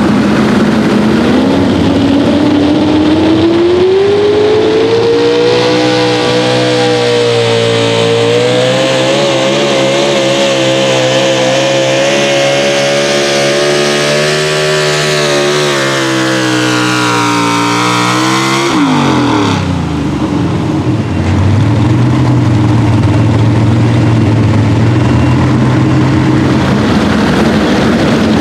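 Pro stock four-wheel-drive pulling truck's engine revving up to high rpm and held near full throttle, its pitch wavering as it drags the sled, then sagging under the growing load. About two-thirds of the way through the throttle is shut suddenly and the engine falls to a lower, steady speed: the end of the pull.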